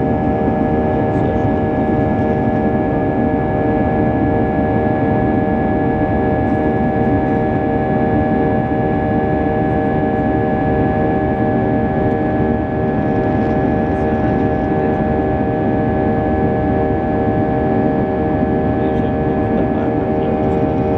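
Steady in-cabin drone of an Airbus A320's CFM56 turbofan engines, with several fixed whining tones over the rush of airflow and engine noise.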